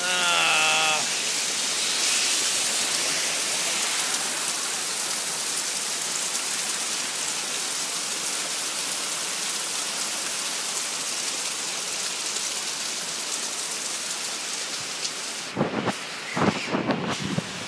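Steady heavy rain, an even hiss, during a thunderstorm. Near the end it is broken by a quick cluster of sharp cracks.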